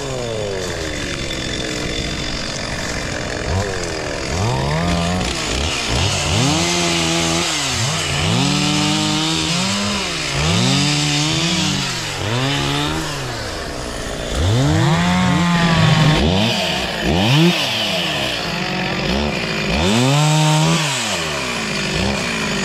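Two-stroke chainsaw revving up and dropping back over and over, roughly once every second or two, as it works through wood.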